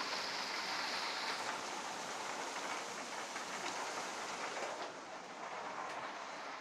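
Heavy downpour of rain falling in a steady hiss, easing slightly about five seconds in.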